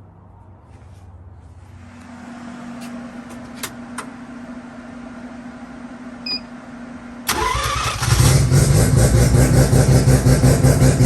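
Big-single-turbo, street-ported Mazda 13B rotary engine in a Toyota Starlet drag car being started. A steady electric hum and a couple of clicks come first. The engine fires about seven seconds in and settles into a loud, choppy rotary idle.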